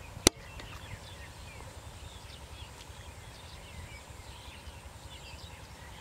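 Small birds chirping in many short calls over a low outdoor rumble, with one sharp click about a quarter second in.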